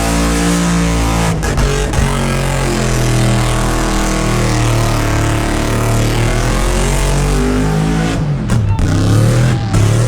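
V8 engine held at high revs in a burnout, its pitch wavering up and down, with a few brief sharp dips in the sound near the start and again about eight seconds in.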